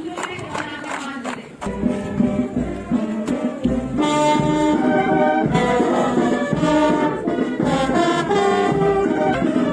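Brass band playing, held brass notes coming in strongly a couple of seconds in and growing fuller and louder a few seconds later.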